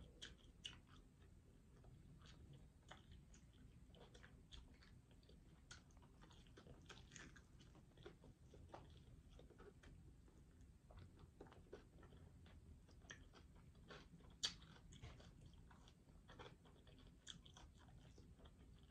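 Faint close-up eating sounds of fried chicken wings: biting and chewing with small crunches and wet mouth clicks, with one sharper click about fourteen seconds in.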